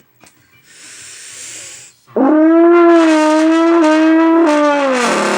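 A short hiss of air, then a trombone sounds a loud held note that shifts slightly in pitch and slides down near the end as the slide is pulled out.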